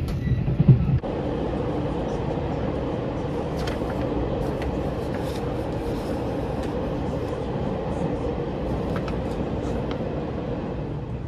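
Steady running noise of a passenger train in motion: a continuous rumble with a held hum and occasional faint clicks. The first second is a louder, deeper rumble that changes abruptly.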